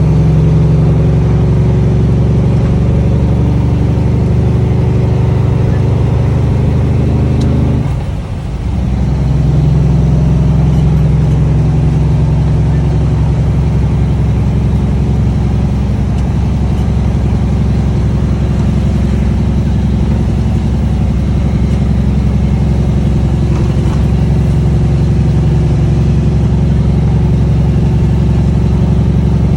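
Cummins ISX straight-six diesel running loud through six-inch straight pipes, a steady deep exhaust drone that dips briefly about eight seconds in and then picks back up.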